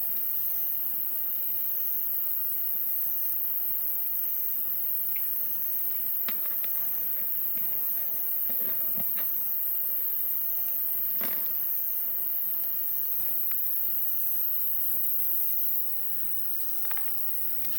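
Insects chirping: a steady high hiss with a short high chirp repeating a little under twice a second. A few sharp clicks and snaps come in the middle, and the hiss drops slightly near the end.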